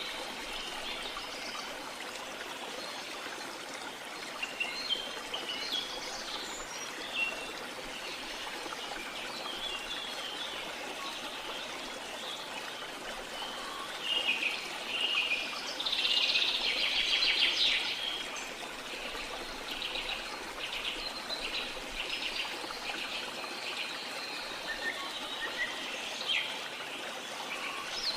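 Rainforest ambience: a steady hiss of rushing water under many birds chirping and calling. Partway through, a louder run of rapid, pulsed calls stands out for several seconds.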